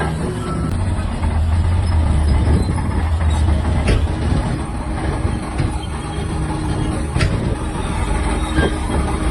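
Shantui DH17-C3 bulldozer's diesel engine running with a steady low rumble, and a couple of sharp knocks about 4 and 7 seconds in.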